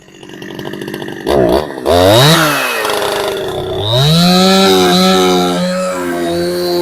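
Husqvarna 372XP-clone two-stroke chainsaw, running on a genuine Husqvarna carburettor, revved up and down twice and then held at a high, steady pitch near full throttle.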